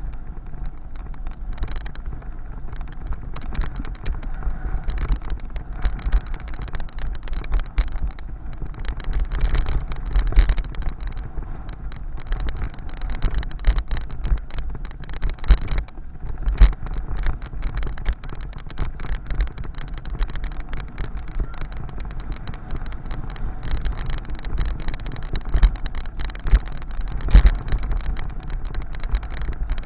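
Wind buffeting the microphone during a bicycle ride, a steady deep rumble, with frequent short rattling knocks from the bike over the road surface.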